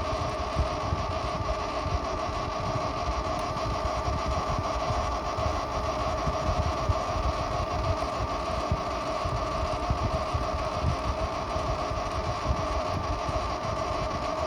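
Ice maker making a steady buzzing hum, two held tones over a low rumble, without a break.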